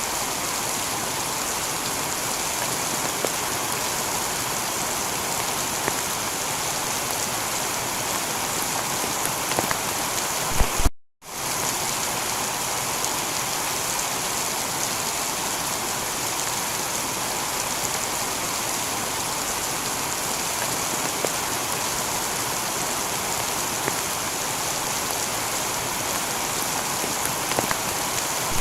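Steady heavy rain falling on a tiled roof, an even hiss of drops. The sound cuts out for a moment about eleven seconds in and then resumes, as at the join of a loop.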